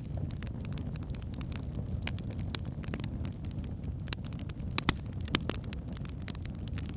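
Wood fire burning in a fireplace: a steady low rush of flames with frequent irregular crackles and pops from the logs, the sharpest a little under five seconds in.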